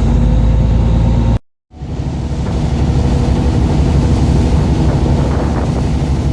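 Fishing boat's engine running steadily, with wind and water noise; the sound cuts out completely for a moment about one and a half seconds in.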